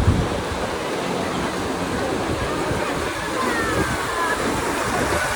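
Steady rushing noise of sea surf and wind buffeting the microphone, with a few faint short falling whistle-like glides near the middle.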